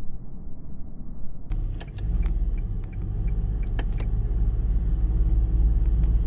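Low, steady vehicle engine rumble that grows louder about two seconds in, with scattered sharp clicks and rattles over it.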